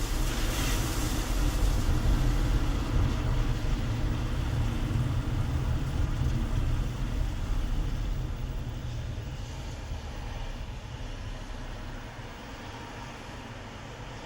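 Road and engine noise of a moving car heard from inside the cabin: a steady low rumble, with a brief hiss about a second in. The noise eases off over the last few seconds.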